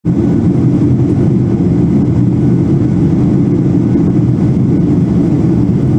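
Steady, loud low rumble of a passenger jet's engines and airflow heard inside the cabin.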